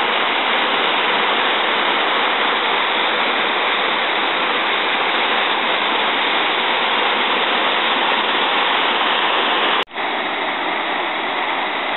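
Waterfall rushing, a loud, steady wash of falling water. About ten seconds in it drops out for an instant with a click, then carries on a little quieter.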